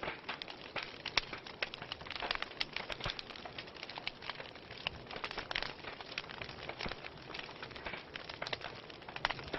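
Wood fire burning in a fireplace, crackling with many sharp, irregular pops and snaps over a soft hiss.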